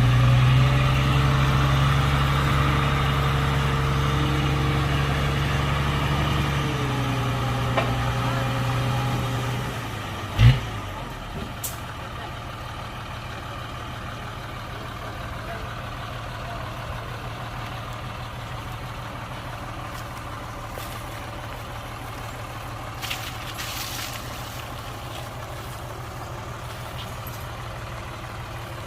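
Heavy diesel engine running steadily under load, then slowing down about seven seconds in. A single loud thump comes about ten seconds in, after which the engine idles steadily and more quietly.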